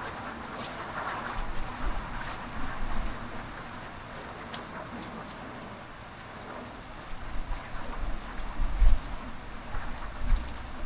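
Heavy rain pouring down, with many close drops pattering and splashing on hard surfaces; low rumbles swell underneath, strongest in the second half.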